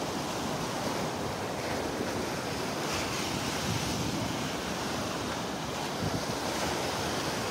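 Rough surf breaking on the beach, a steady wash of waves, with wind buffeting the microphone.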